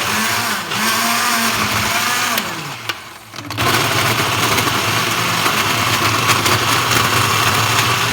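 Electric kitchen blender running, blending citron pulp with rose water and sugar. The motor sags and almost stops about three seconds in, then starts again and runs steadily.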